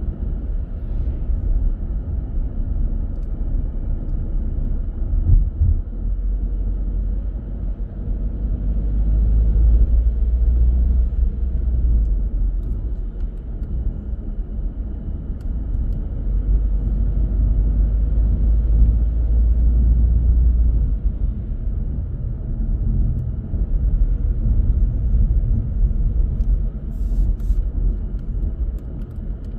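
Car on the move: steady low rumble of road and engine noise, growing heavier for a stretch in the middle, with a faint steady high whine.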